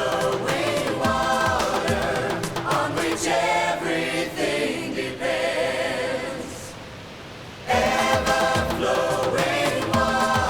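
Music with a choir singing, with a short softer break about two-thirds through before the voices come back in.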